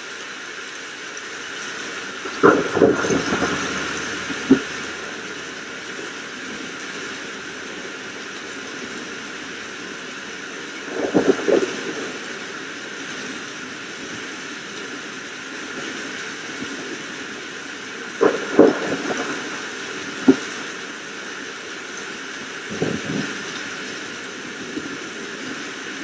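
Steady rain hiss with short, sharp thunder cracks breaking in five times: near the start, about eleven seconds in, twice around eighteen to twenty seconds, and again about twenty-three seconds in.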